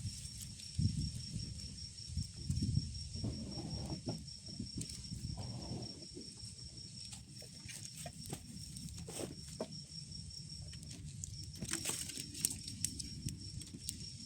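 A steady high-pitched insect trill that breaks off briefly near the end. Under it are scattered sharp clicks and low rumbling.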